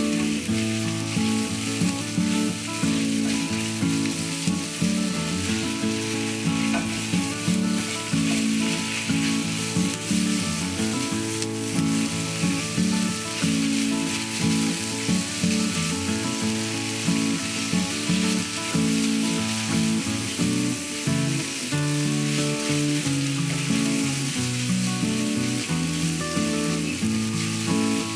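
Food frying in a pan with a steady sizzle, under background music carrying a stepping melody.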